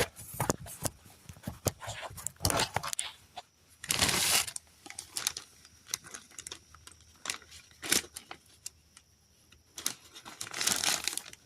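Hand-mixing a wet heat-clay (refractory) mix in a container: irregular scraping, knocks and rustling, with two longer rustling stretches, about four seconds in and near the end.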